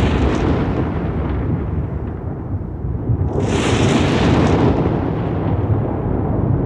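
Thunder rolling steadily in a storm, a deep continuous rumble with a sharper crackling surge about halfway through.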